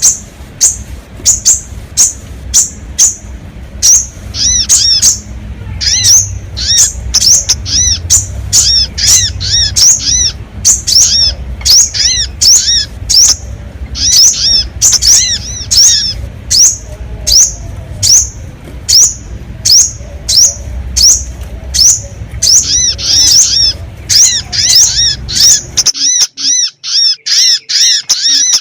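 Sogon bird lure calls: short, sharp, high-pitched notes repeated quickly, about two or three a second, played as a lure to draw in wild birds. A low background rumble under the calls cuts out near the end.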